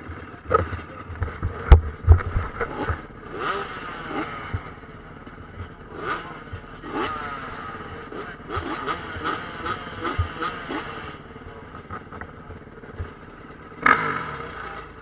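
Motocross motorcycles revving and accelerating, their engine pitch repeatedly rising and falling as several bikes go through the throttle. There is a sharp knock about two seconds in and another near the end.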